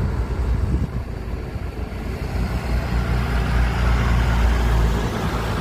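A large vehicle's engine running steadily with a low rumble, growing louder a little past halfway and easing off near the end.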